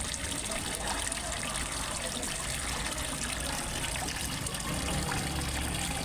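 Small waterfall trickling and splashing steadily into a fish pond.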